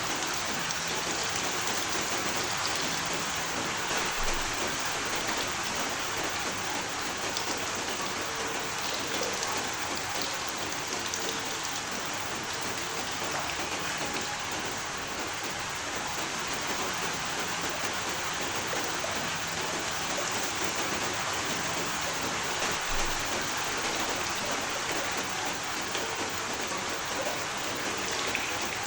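Steady rain falling and pattering on a surface, an even hiss with faint individual drop ticks.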